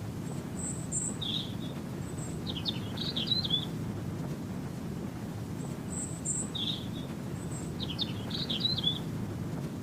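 Bird chirps and quick warbling trills over a steady low rushing noise. The same bird phrase comes twice, about five and a half seconds apart, as in a looped recording.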